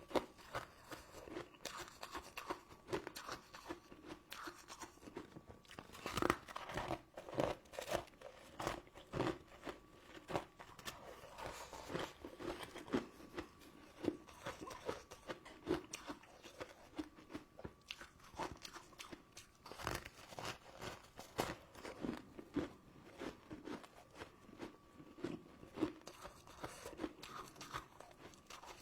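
Close-miked biting and chewing of crunchy sugar-crusted sweets and jelly: a run of irregular crisp crunches, louder bites around six seconds in and again near twenty seconds.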